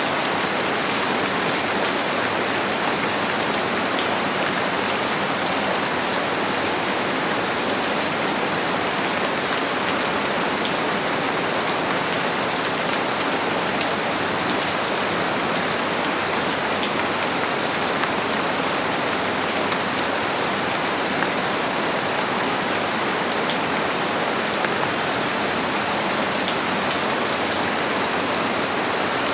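Steady heavy rain falling, a dense even hiss with many fine droplet ticks on a surface.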